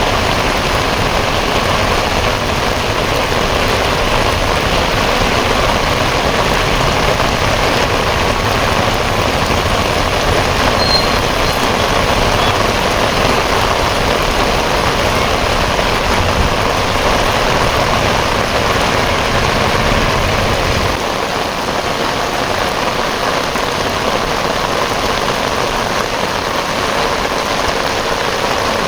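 Steady rushing noise of heavy rain and running water, with a low rumble underneath that drops away suddenly about 21 seconds in.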